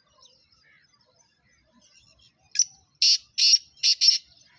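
A bird giving five loud, harsh, buzzy calls in quick succession about two and a half seconds in, after faint scattered chirping.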